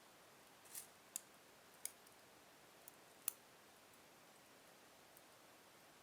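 Slow-burning log fire in a fireplace, crackling with a handful of sharp, separate pops in the first half, the loudest about three seconds in, over a faint steady hiss.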